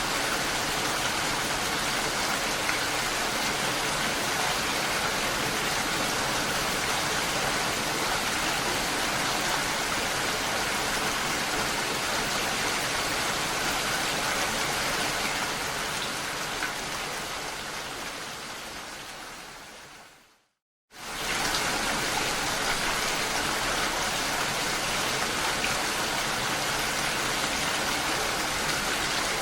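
Steady rain, an even hiss of falling drops. About two-thirds of the way through it fades out to a moment of complete silence, then cuts straight back in at full strength.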